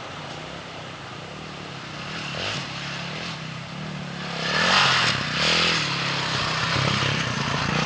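KTM 640 Adventure's single-cylinder four-stroke engine running under riding, its engine speed rising and falling. It gets louder about halfway through, with a rush of noise over the engine note.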